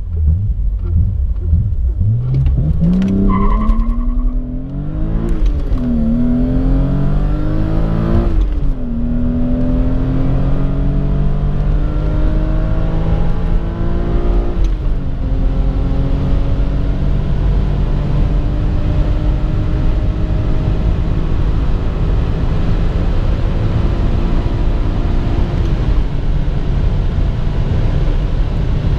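BMW M5 E34's 3.8-litre S38B38 straight-six under full-throttle acceleration, heard from inside the cabin. The engine note climbs in pitch and drops back at each upshift, and the gears last longer as speed builds, the last shift coming near the end. Steady road and wind noise runs underneath.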